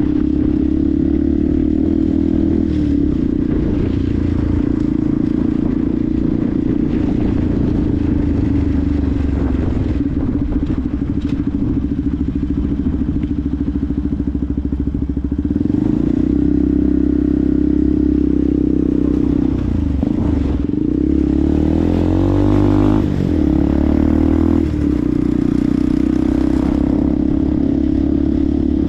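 Benelli TNT 125's single-cylinder 125cc four-stroke engine running steadily under way. About halfway through the engine note rises, then dips briefly and climbs again twice, as with gear changes.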